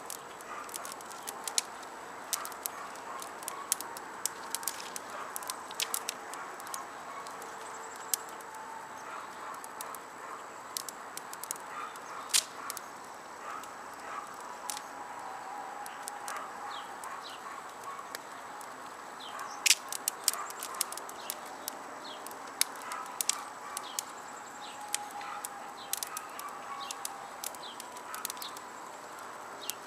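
Burning wood fire crackling, with sharp irregular pops scattered throughout and a flurry of louder pops about twenty seconds in, over a steady outdoor background.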